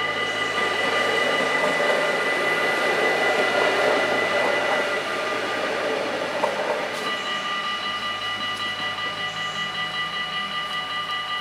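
A Protos electric train passes over a Dutch level crossing. Its running noise builds and then fades out about seven seconds in, while the crossing's warning bells ring steadily throughout.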